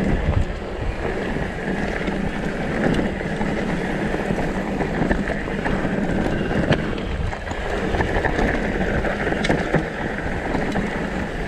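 Wind rushing over the microphone while a downhill mountain bike runs down a dirt trail: tyres rumbling over the ground, with scattered sharp clicks and rattles from the bike.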